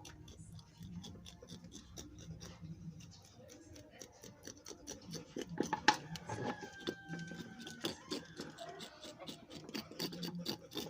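A knife scraping over the skin of a scalded, plucked duck in quick, light strokes, giving a run of fine clicks and scrapes. There are a few louder knocks about six seconds in.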